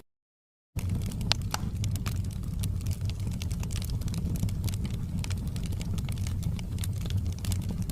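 Wood fire in a fireplace crackling, with irregular sharp pops over a steady low rumble of the flames. The sound cuts to silence for under a second at the start, then resumes.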